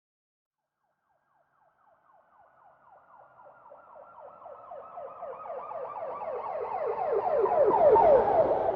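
Emergency-vehicle siren in a fast yelp, a quick falling wail repeated several times a second. It fades in out of silence about a second and a half in and grows steadily louder as the vehicle approaches, loudest near the end, with a low rumble under it as it draws close.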